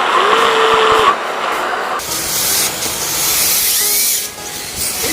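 Electric RC drift cars running: a steady hiss with a short motor whine that rises and then holds near the start. About two seconds in the sound changes abruptly to a brighter, wider hiss.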